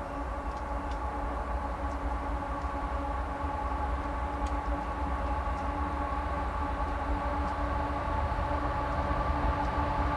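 A diesel-powered train on the CSX line droning steadily with a low rumble and several held engine tones, growing gradually louder as it draws nearer.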